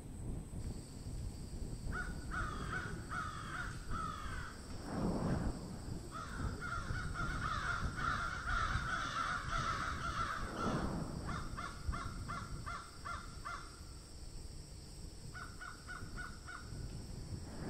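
Birds calling in runs of rapid, repeated notes, with a steady high whine behind them and a few swells of rushing noise spaced several seconds apart.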